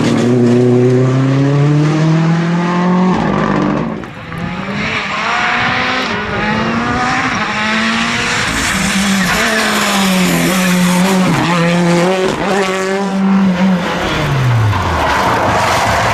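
Rally car engine at full throttle, its pitch climbing for about three seconds, dipping briefly near four seconds, then running at high revs with repeated rises and drops through gear changes. Tyre noise joins in the middle, and the revs fall away near the end.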